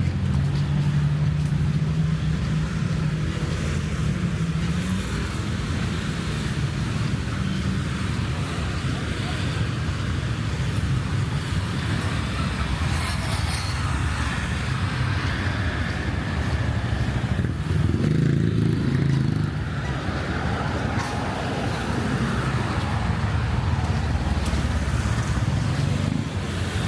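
Road traffic: cars and motorbikes running past in a steady stream, with an engine running steadily close by for the first few seconds and another vehicle passing near, louder, a little past the middle.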